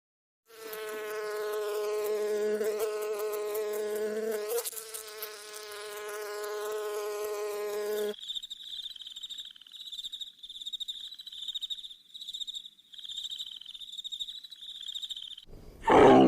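A steady, high-pitched insect buzz for about seven and a half seconds, cutting off suddenly. A cricket then chirps in repeated short pulses. A loud, low call begins just before the end.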